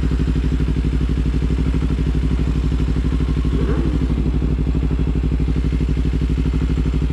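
Motorcycle engine idling steadily with an even, regular pulse. A faint whine rises and falls briefly about halfway through.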